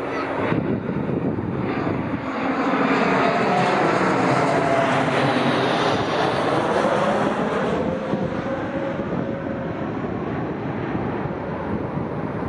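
Jet airliner passing close by. Its engine noise swells to a peak in the middle and then eases off, while a whining tone slides down in pitch as it goes past.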